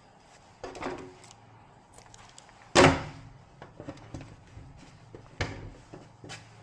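Several separate knocks and clatters of things being handled, the loudest a heavy knock about three seconds in.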